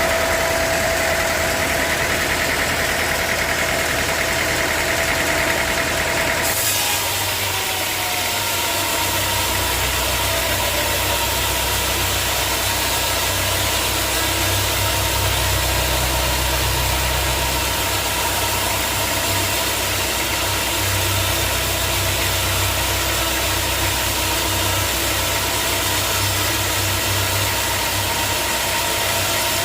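Sawmill machinery running steadily on its engine. The sound changes abruptly about six and a half seconds in, after which a deep hum dominates.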